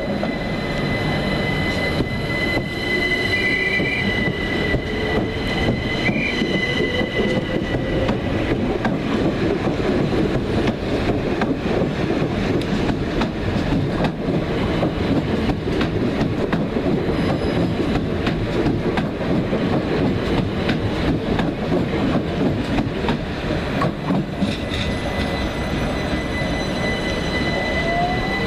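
Train running on rails: a steady, loud rumble with high-pitched wheel squeal during the first several seconds and again near the end.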